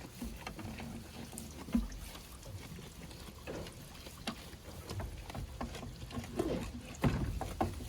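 Wind rumbling on the microphone, with scattered small clicks and rustles and a few brief low sounds that may come from the goats.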